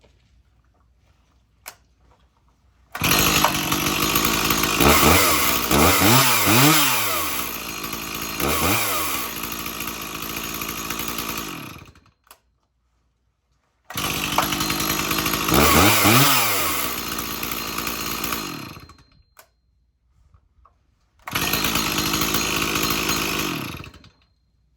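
Two-stroke chainsaw running, with its engine blipped so the pitch drops and climbs again several times. It sounds in three runs, each starting and cutting off suddenly. This is a freshly cold-started saw that runs well.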